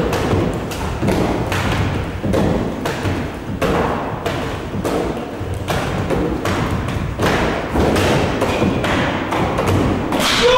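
Bare feet and hands thumping and slapping on a wooden floor during a vigorous dance, a dense, irregular run of thuds several times a second.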